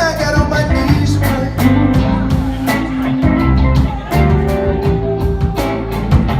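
Live blues band playing: guitar lines over bass and a steady drum beat.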